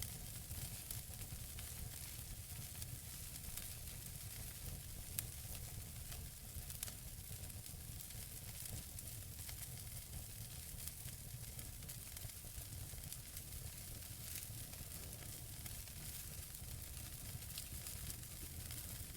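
Wood fire burning in a fireplace: a steady hiss with many small crackles, and a couple of sharper pops about five and seven seconds in.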